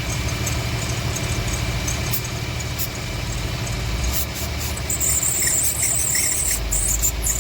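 Infiniti FX35's 3.5-litre V6 idling, with its drive belt giving a steady high squeak, which the owner puts down to a worn belt that needs replacing. From about halfway, short hisses of aerosol WD-40 being sprayed onto the belt.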